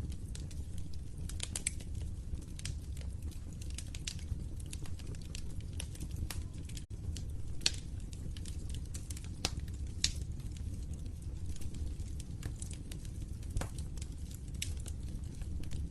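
Wood fire crackling in a fireplace: a steady low rumble of burning with a constant scatter of small crackles and a few sharper pops. The sound cuts out for a split second about seven seconds in.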